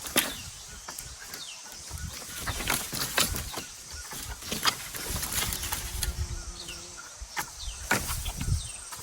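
Irregular scraping and knocking strokes of hand work clearing the ground, with short high chirps of small birds or chicks among them.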